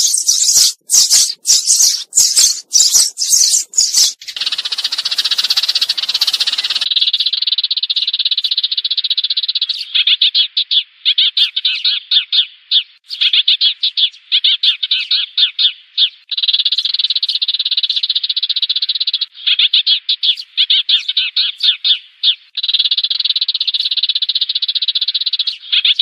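Recorded sparrow calls played as a flock-calling decoy: sharp, separate chirps at first, then about seven seconds in a fast, dense chattering twitter that comes in runs of a few seconds with short breaks.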